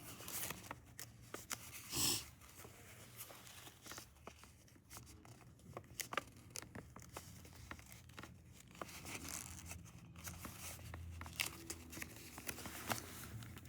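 A sheet of paper being handled and creased while its flaps are pushed and tucked in: faint, irregular crinkles, rustles and small clicks, with one louder rustle about two seconds in.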